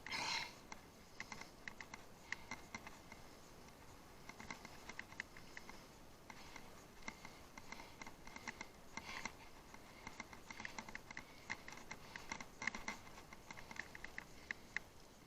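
Irregular light clicking and rattling of a bicycle riding over rough off-road ground, with a louder clatter at the very start and bunches of rattles near the middle and towards the end.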